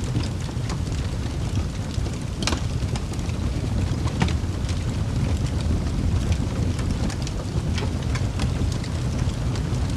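Wood fire burning in a fireplace: a steady low roar of flames with sharp crackles and pops from the burning logs, two louder pops about two and a half and four seconds in.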